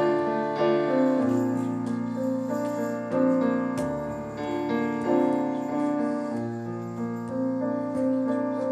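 Piano or keyboard playing the introduction to a hymn, slow sustained chords over a bass line.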